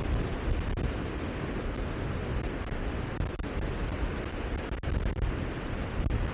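Wind buffeting the microphone: a steady rushing noise with an uneven, gusty rumble underneath.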